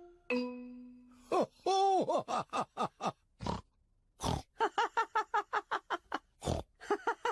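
Cartoon pig characters laughing and snorting in quick repeated bursts, with a few dull thumps among them.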